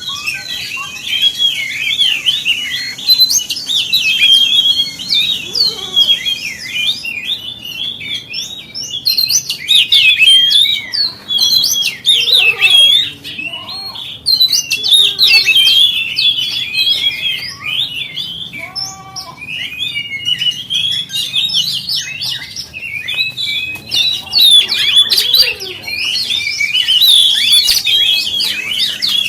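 Oriental magpie-robin (kacer) singing a fast, unbroken stream of varied whistles and chirps.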